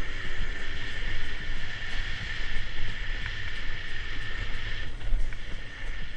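Dirt bike engine running, with wind rumbling on the microphone. A steady high band in the engine noise drops away about five seconds in.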